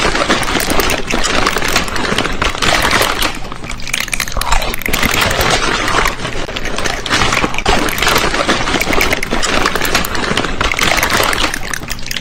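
Loud, continuous crunching and chewing of snack food, a dense crackle that cuts off abruptly at the end.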